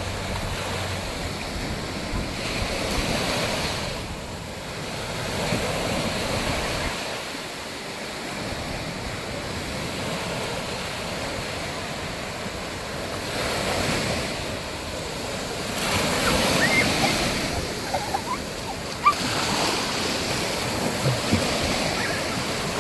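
Ocean waves breaking and washing up on a beach, the surf swelling and easing several times, with wind buffeting the microphone.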